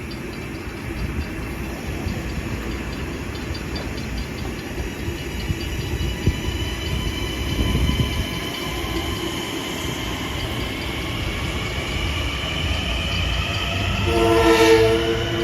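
LIRR M9 electric multiple-unit train pulling away from the platform, its traction motors whining in several tones that rise in pitch as it gathers speed, over a steady rumble of wheels on the rails. Near the end a train horn sounds a loud chord.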